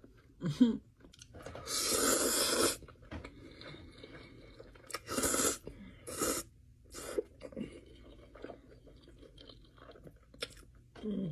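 A person biting and chewing crunchy food close to the microphone: a run of separate loud crunches, the longest lasting about a second, with quieter chewing between them.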